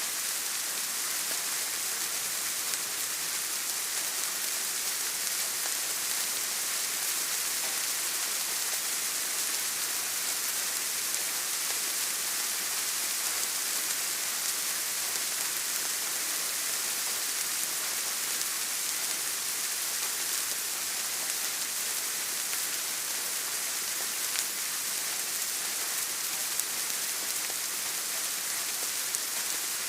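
Steady rain: an even hiss of falling rain with a few faint drop ticks scattered through it.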